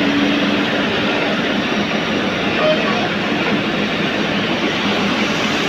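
Heavy diesel machinery engine running steadily, with a steady hum that fades out about a second in.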